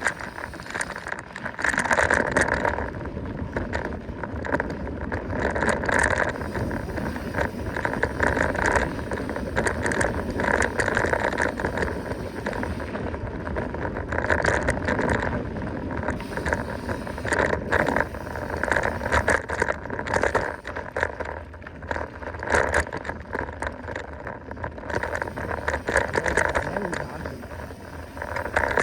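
Mountain bike descending a dirt trail at speed: tyres on dirt and the bike rattling over bumps, with steady wind rushing over the microphone.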